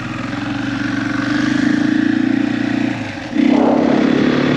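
Motorcycle engine running under throttle as the bike rides off, its note rising a little, with a short dip about three seconds in before it comes back louder.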